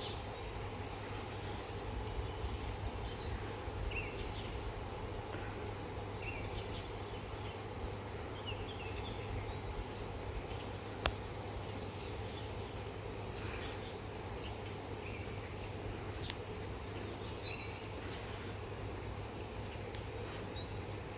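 Faint, scattered small-bird chirps over a steady outdoor background hum, with a sharp click about halfway through and another a few seconds later.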